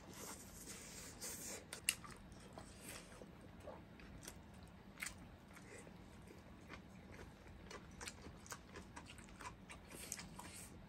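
Faint close-up chewing and biting of two people eating by hand, with scattered small wet clicks; the sharpest clicks come about two seconds in and about five seconds in.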